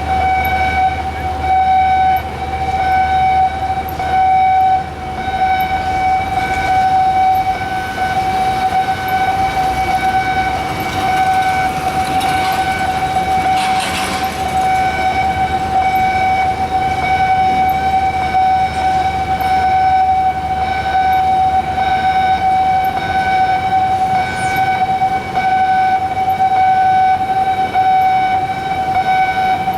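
Electronic alarm horn sounding one continuous, steady tone with overtones: the wind-speed (anemometer) alarm warning of high wind. A brief rush of noise comes about halfway through.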